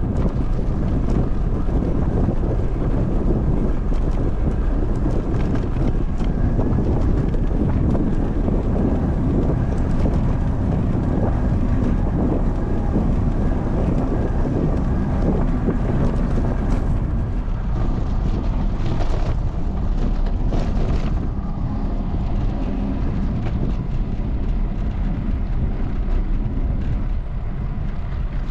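Steady wind buffeting the microphone, a loud low rumble that eases slightly near the end.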